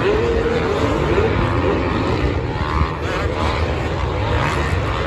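Motocross bikes racing, their engines revving so that the pitch rises and falls over a steady low rumble.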